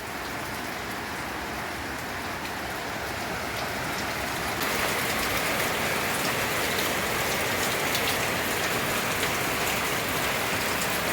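Steady rain falling, a continuous hiss of drops that grows a little heavier about four and a half seconds in.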